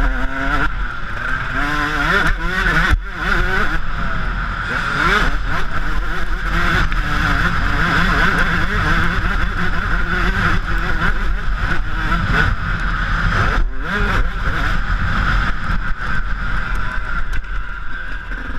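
Yamaha YZ125 two-stroke single-cylinder motocross engine being ridden, its pitch repeatedly rising and falling with throttle and gear changes, over a steady rush of noise. The sound dips out briefly twice, about three seconds in and again near fourteen seconds.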